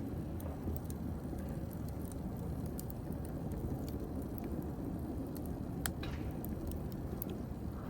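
Wood fire crackling: scattered sharp pops and crackles over a steady low noise from the burning fire, with one louder pop about six seconds in.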